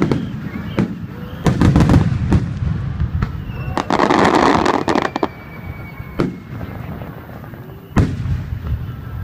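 Aerial fireworks shells bursting: a quick cluster of sharp bangs with low rumbling echoes about a second and a half in, a dense second-long rush of noise around four seconds in, then single bangs spaced out toward the end.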